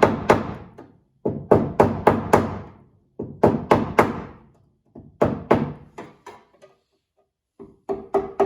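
Hammer blows on sheet-metal body panel, struck in quick bursts of four or five about every two seconds, each blow ringing briefly, as the patch piece is bent to a new angle.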